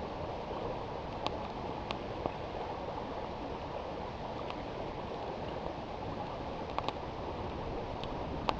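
Steady rushing of river water, with a few sharp crackles and pops from the burning campfire wood scattered through it.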